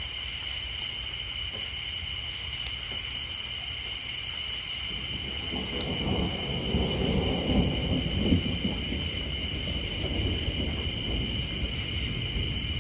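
Steady high-pitched chorus of tree frogs, with a low roll of thunder that builds about halfway through and keeps rumbling.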